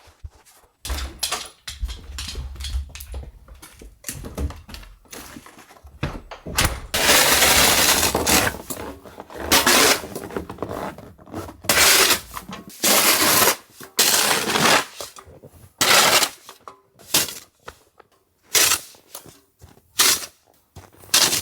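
Snow shovel scooping and tossing light, fluffy powder snow: a series of scrapes and swishes every second or two, with one longer stretch of shovelling about a third of the way in.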